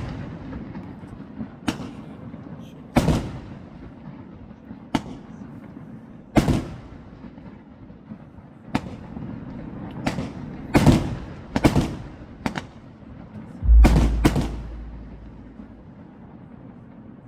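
Aerial fireworks bursting: about a dozen sharp bangs at irregular intervals, each followed by a rumbling tail, with a quick cluster of bursts about two-thirds of the way through before they die down.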